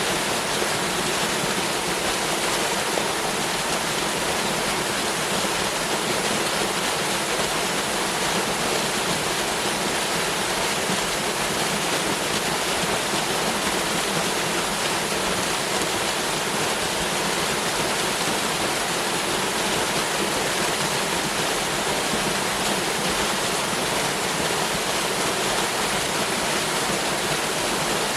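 Waterfall: water falling and rushing in a dense, steady roar.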